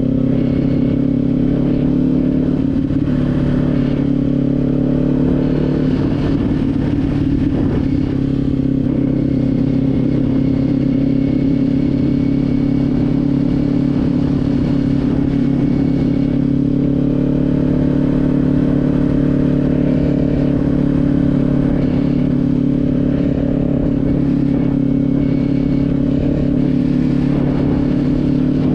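Kawasaki Z400's parallel-twin engine running at a steady cruise under way, its pitch holding nearly constant, with wind rushing over the microphone.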